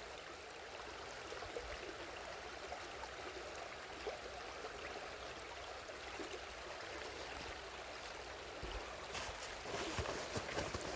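Steady rush of flowing water from a waterfall stream, with a few faint clicks and some louder knocks near the end.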